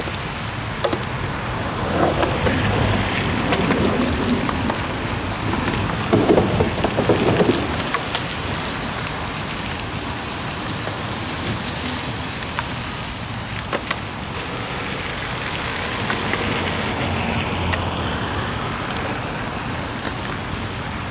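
Steady rain falling on pavement, with a few sharp clicks and knocks around the middle.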